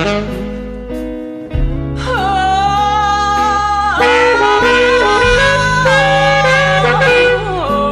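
Slow blues instrumental intro: a saxophone plays long, bending, wavering lead notes over a steady bass line.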